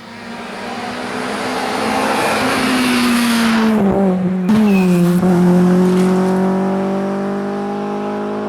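Rally car coming through at speed: engine and tyre noise build as it approaches. The engine note drops in pitch as it passes about four to five seconds in, then holds a steady note as it slowly fades.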